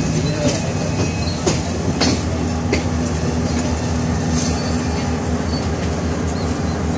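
Passenger train running slowly, heard from an open carriage window: a steady low engine drone and rumble with a few sharp clicks of wheels over rail joints about one and a half to three seconds in.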